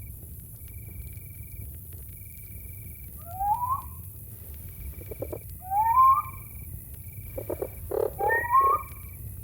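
Night insect chorus: a cricket trilling in regular short pulses on one high pitch. Over it an animal gives three loud calls that slide upward in pitch, about 3.5, 6 and 8.5 seconds in, with lower pulsed sounds around the second and third.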